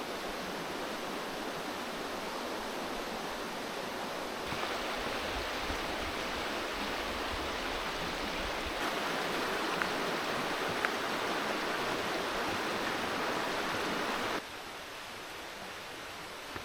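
Steady rushing of a river's flowing water, getting louder twice and dropping suddenly near the end.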